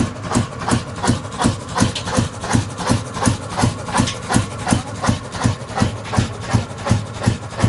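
25 HP old black diesel engine running steadily with a slow, even knock at about two and a half beats a second.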